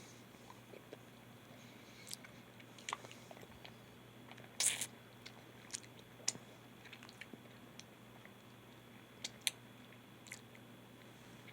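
A person biting into and chewing a soft, ripe plum close to the microphone: scattered wet mouth clicks and smacks, with the loudest juicy bite a little before halfway.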